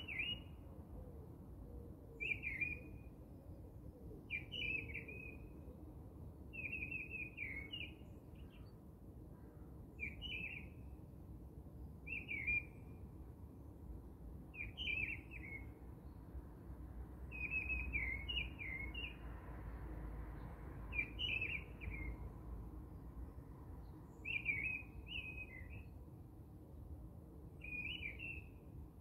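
A small bird chirping: short phrases of a few quick notes, repeated about every two seconds, over a faint low hum.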